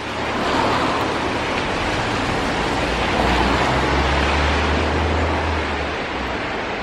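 Outdoor rain and wind noise rushing steadily against the microphone, with a low hum swelling in the middle seconds and fading before the end.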